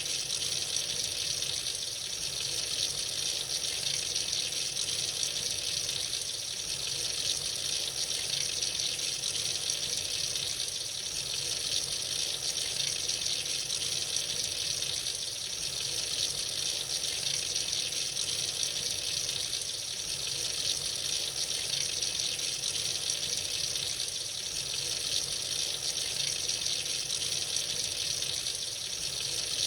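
Tap water running freely into a sink in a steady, unbroken stream, a hiss-heavy splashing that holds level throughout.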